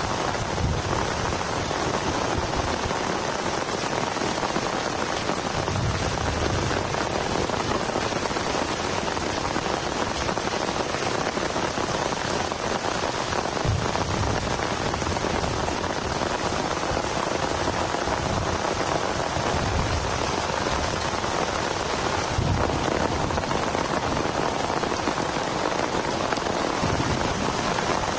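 Heavy rain falling steadily, a dense even hiss of drops, with a few soft low thumps.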